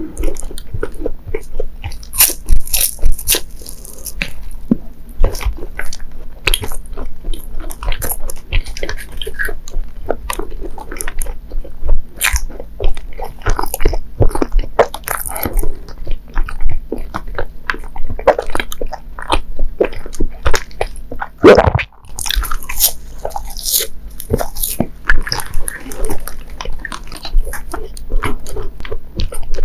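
Close-miked biting and chewing of a mochi monaka: the crisp rice-wafer shell crunches in quick, irregular cracks while the soft bean-paste filling is chewed. The crunching is loudest near the start and again about three-quarters of the way through.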